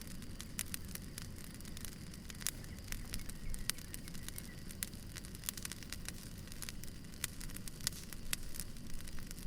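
Wood fire burning: logs crackling with many irregular sharp pops over a steady low rumble.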